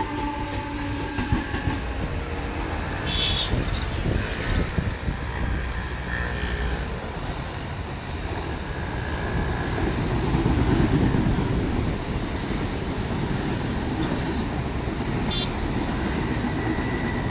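Mumbai suburban electric multiple-unit local train running along the tracks: a steady rumble of wheels and carriages on the rails, growing a little louder about ten seconds in.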